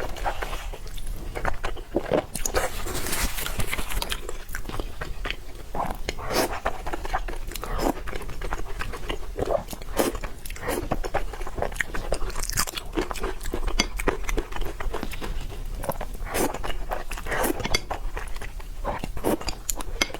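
Close-miked eating: steady chewing with many short, crisp crunches and bites.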